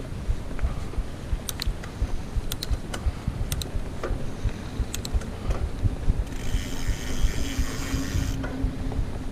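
Mountain bike rolling over a trail with a steady low rumble and a few sharp clicks. About six seconds in, the rear hub's freewheel ratchet buzzes for about two seconds while the rider coasts.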